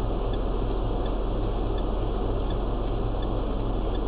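A car's turn-signal indicator ticking about once a second inside the cabin, over a steady low engine and road rumble.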